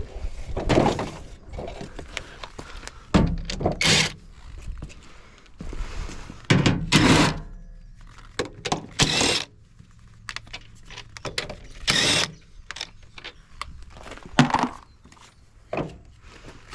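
Irregular thunks, knocks and clatter of a washing machine's metal and plastic parts being handled and worked on during a teardown.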